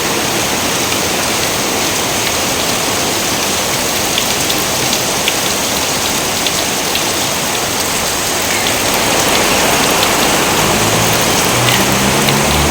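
Steady heavy rain falling, a dense even hiss with scattered separate drips, growing a little louder about nine seconds in. A low rumble joins it near the end.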